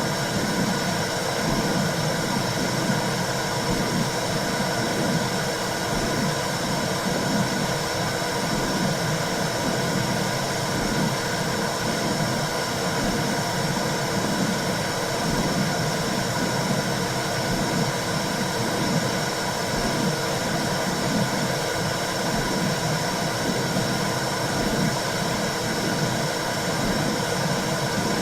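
Womb sound for soothing a baby: a steady, low whooshing noise that pulses in a soft, regular rhythm, with a constant hiss above it.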